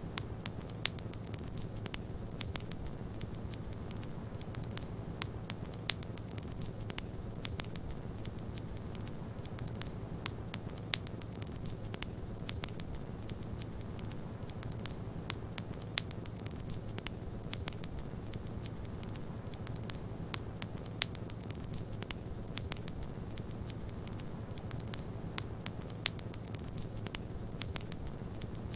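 Wood fire in a fireplace crackling, with frequent small pops and a few sharper snaps at irregular moments, over a steady low rumble of snowstorm wind.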